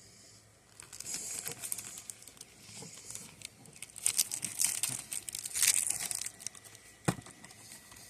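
Snack packaging crinkling and rustling as it is handled, in several bursts, with one sharp click near the end.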